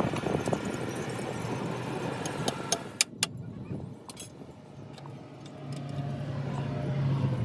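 A motor vehicle going by, with a few sharp metal clinks about three seconds in; the rush fades, and a steady low hum comes in near the end.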